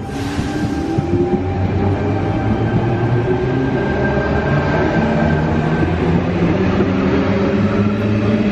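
Double-deck electric passenger train pulling away and gathering speed past the platform, its motor whine rising in pitch over the rumble of the wheels. A brief hiss sounds right at the start.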